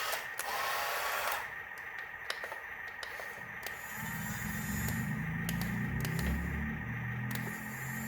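Small electric motors of a miniature remote-control excavator whirring with a steady high whine, with scattered clicks and knocks of the plastic mechanism. From about four seconds in, low tones join underneath.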